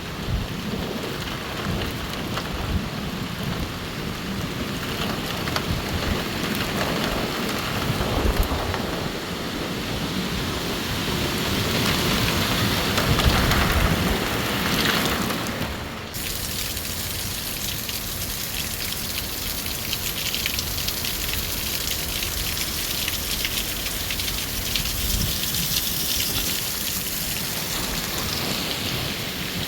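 Windstorm: strong wind gusting and buffeting the microphone in low rumbles over a steady rushing hiss, typical of heavy wind with rain. About halfway through the sound changes abruptly to less rumble and more even hiss.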